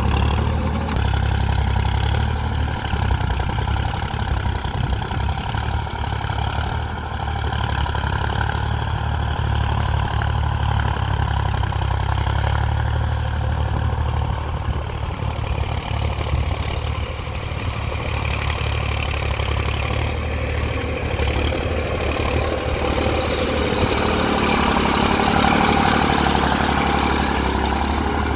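Tractor's diesel engine running steadily, a continuous low drone.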